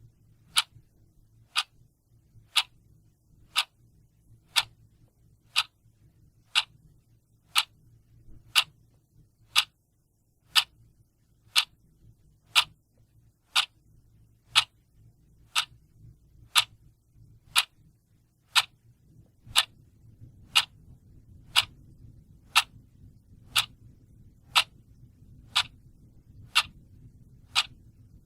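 A clock ticking steadily, one sharp tick each second, over a faint low background hum.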